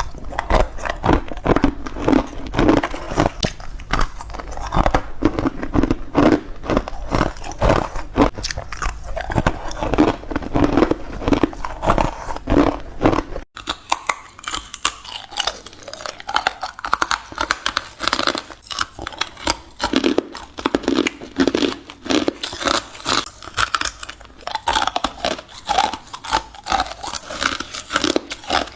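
Ice being bitten and chewed close to the microphone: dense, rapid crunching and cracking, several crunches a second throughout. A low hum under the first half cuts off suddenly about halfway through.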